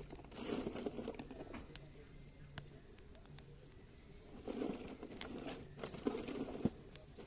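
Dry branches and twigs crackling and rustling in three bursts, with a few sharp snaps in between.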